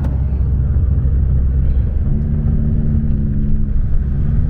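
A turbocharged 1.5-litre four-cylinder Honda Civic engine runs under way with road rumble. About two seconds in, a steady engine tone rises out of the rumble and holds at even revs, with no blow-off valve whoosh.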